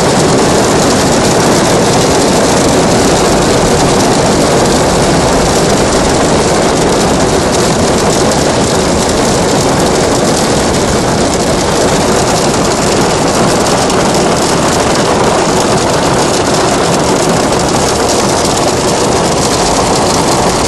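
Hail falling heavily in a hailstorm: a loud, steady, dense hiss of hailstones coming down.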